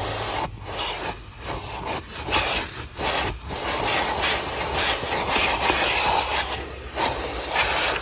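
Car wash vacuum sucking through its hose tool as the nozzle is rubbed and pushed into the car's interior, the rushing airflow repeatedly choking off and opening up during the first half and then running steadier.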